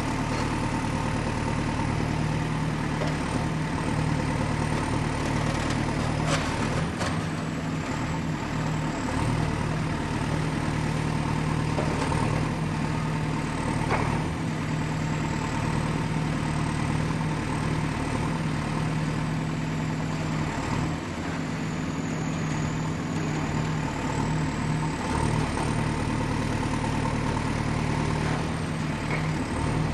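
Excavator's diesel engine running steadily with a deep, even hum, and a few short clanks about six, seven and fourteen seconds in. A thin high whine drifts slightly in pitch above it.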